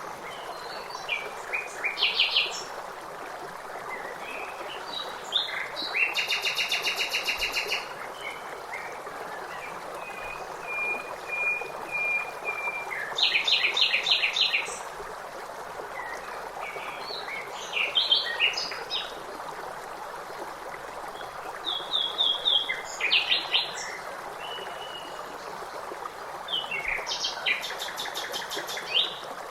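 Several songbirds singing and calling over the steady rush of running water. The phrases come one after another and include a fast trill of rapidly repeated notes and short runs of quick chirps.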